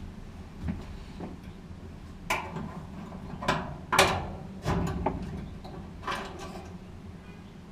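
Tools and metal parts clanking inside a dryer cabinet during work on the blower wheel: a run of sharp knocks and scrapes, the loudest about four seconds in, over a steady low hum.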